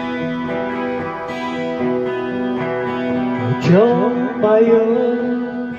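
Acoustic guitar playing the instrumental introduction to a song, with strummed and picked chords ringing. About halfway through, a note slides upward and is then held with a slight waver.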